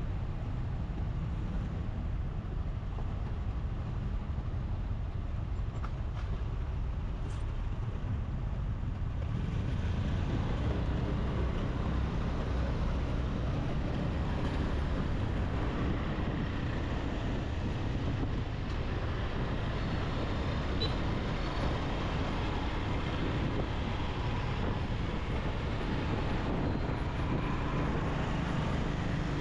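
Steady engine and road noise of a motorbike riding through city traffic. It grows a little louder and fuller about nine seconds in.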